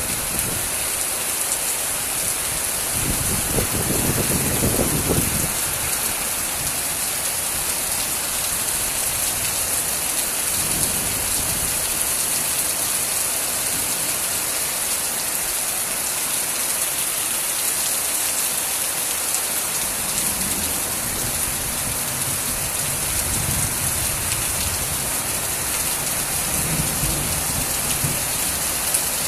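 Steady, heavy rain hissing as it falls and hits surfaces, with a low rumble rising briefly about three seconds in.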